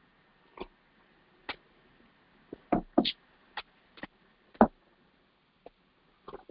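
A string of about ten short, irregular clicks and taps, bunched together in the middle, the loudest a couple of sharp knocks.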